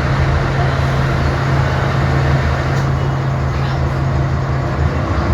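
Diesel engine of a Scania K 360 bus running steadily with a low, even hum that drops in pitch about five seconds in.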